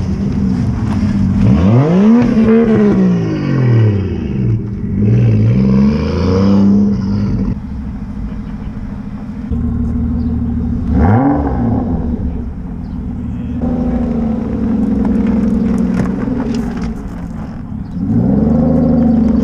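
Car engine idling and revved several times, each rev rising and falling back in pitch, with a steady idle between the revs.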